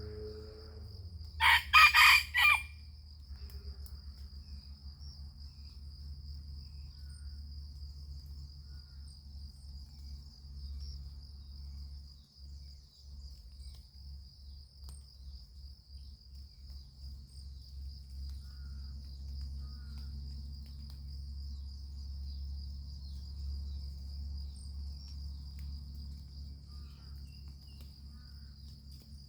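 A rooster crows once, about two seconds in, over a steady high insect drone and a low hum.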